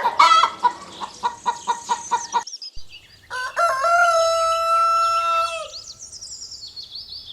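Chickens: a hen clucking in quick, repeated short clucks, then after a short break a rooster crows once, a long held call of about two seconds. High-pitched chirps run underneath.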